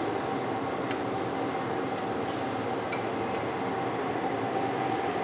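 Chilies and tomatoes frying in hot oil under a lid: a steady sizzle, with a steady hum beneath it.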